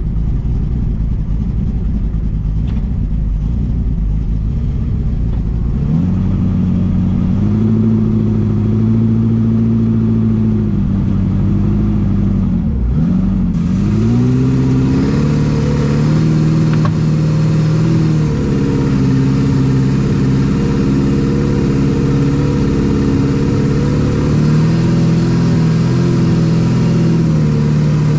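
FJ40 off-road buggy's engine heard from inside the vehicle while driving. It runs low at first and revs up about six seconds in, drops sharply and climbs again around thirteen seconds, then pulls steadily at higher revs.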